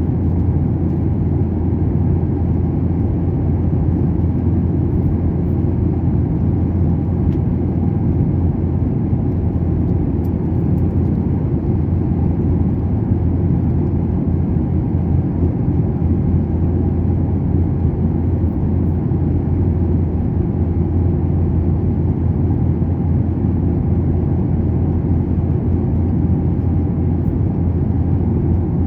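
Steady, loud low drone of cabin noise inside a jet airliner, the engines and air rushing past the fuselage.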